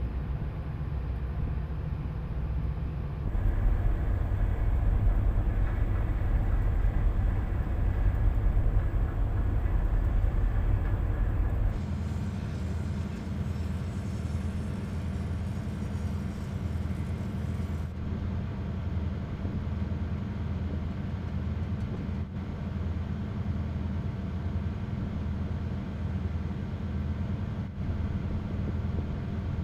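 Tugboat engine running, a steady low drone. The sound changes abruptly about three seconds in, getting louder, and again about twelve seconds in, settling to a somewhat different, quieter drone.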